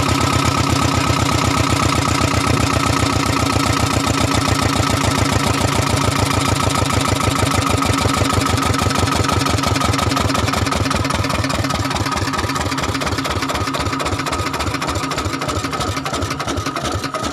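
Lister Petter diesel engine running with a quick, even firing beat that slows and softens a little in the last few seconds.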